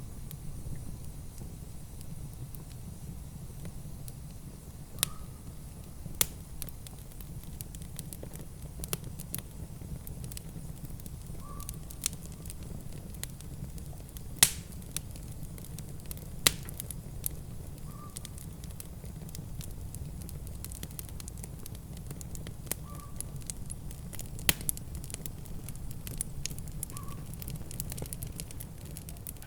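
Wood fire crackling: irregular sharp pops and snaps over a steady low rumble, with the loudest pop about halfway through.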